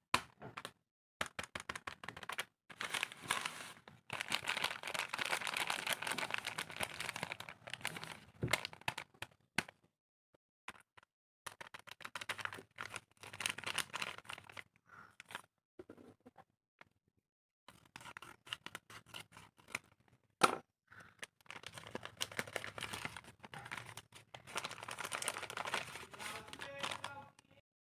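A paper blind bag and its contents crinkling and tearing as they are handled and opened by hand. The sound comes in crackly bursts of a few seconds with short pauses between, and there is one sharp tap about twenty seconds in.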